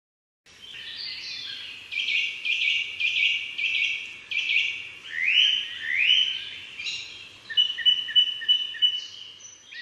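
Birdsong starting about half a second in: repeated short chirped phrases, two rising whistles about five and six seconds in, then a run of quick, evenly spaced high notes near the end.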